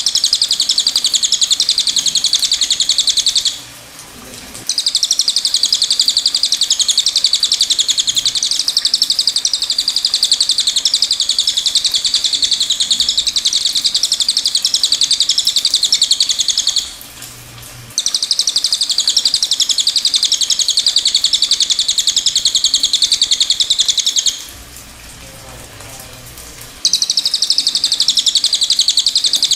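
Cililin singing: a very rapid, high, buzzy trill delivered in long unbroken bouts, with three short pauses.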